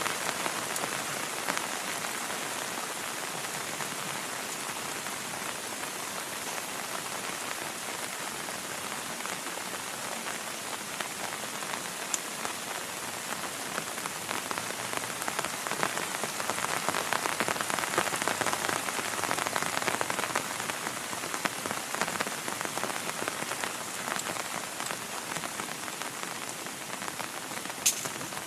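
Heavy rain falling steadily in a dense, even hiss, swelling a little about two-thirds of the way through. A single sharp click comes near the end.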